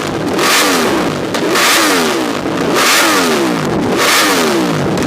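Yamaha R1M crossplane inline-four revved hard through a full-titanium MT Race exhaust, with a quick throttle blip about every 1.2 seconds and the revs falling back after each one.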